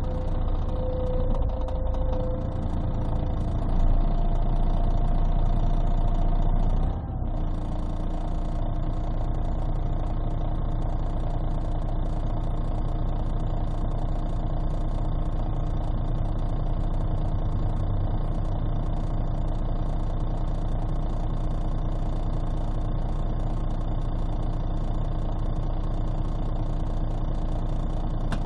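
Scania city bus heard from inside, its DSC 11 diesel engine and Voith automatic gearbox running. A whine rises slowly over the first seven seconds, then the level drops suddenly and the engine drone carries on steadily. Muffled and bass-heavy through a partly covered phone microphone.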